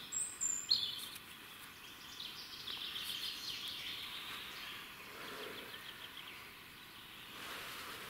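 Wild birds chirping in woodland: a few short, high calls near the start, then a run of quick chirps about three seconds in, over a faint steady hiss.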